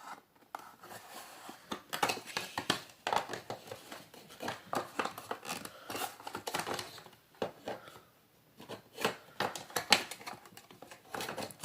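Plastic parts of a Hoover Elite Rewind upright vacuum being handled: irregular clicks, taps and rustling as its filter and cover are worked back into place.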